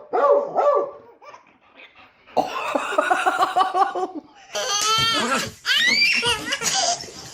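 Loud laughter in repeated hearty bursts, then high-pitched squealing laughs about halfway through.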